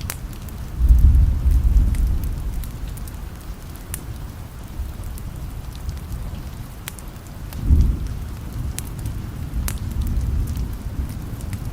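Steady rain with low thunder rumbling, swelling about a second in and again near eight seconds, with scattered sharp crackles from a wood fire.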